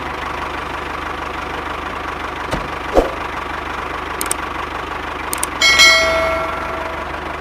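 Small electric motor of a DIY model chaff cutter running steadily with a fast, even hum. There is a single knock about three seconds in, and a metallic clang near six seconds that rings and fades over about a second.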